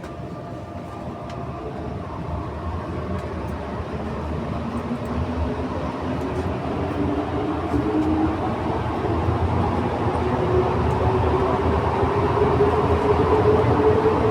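Santiago Metro NS-93 rubber-tyred train accelerating away from a station. The traction motor whine rises slowly in pitch, and the running noise grows steadily louder.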